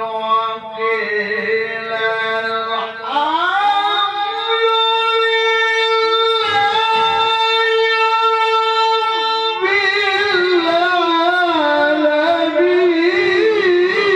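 A male Quran reciter's voice in tilawah style, holding long melismatic notes. The pitch sweeps upward about three seconds in, is held steady, then shifts to a new wavering line about ten seconds in.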